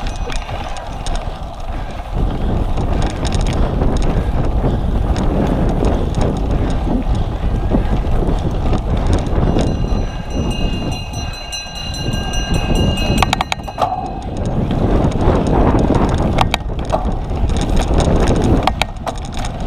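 A cyclocross bike ridden hard over rough ground: wind rushing over the microphone and the bike rattling, with several sharp knocks from bumps in the second half.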